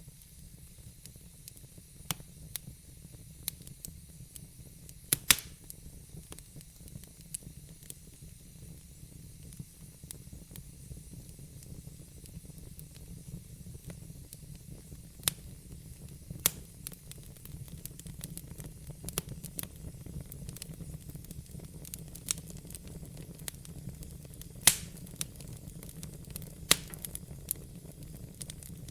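Wood fire in a fireplace crackling and hissing, with a low steady rumble of the flames and sharp pops and snaps at irregular intervals, the loudest about 5, 16 and 25 seconds in.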